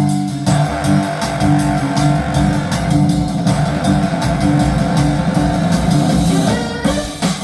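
Guitar-led music with a pulsing bass, played back over a hi-fi system through Fischer & Fischer loudspeakers and heard in the room.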